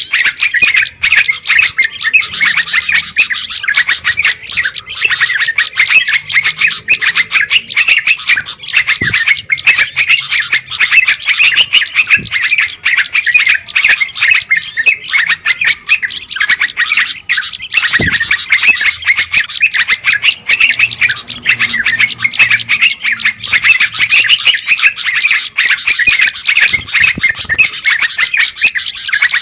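Dense chorus of many small songbirds calling at once, a continuous overlapping chatter of rapid chirps. It is an agitated 'noisy birds' commotion of the kind played as a lure to draw wild songbirds in.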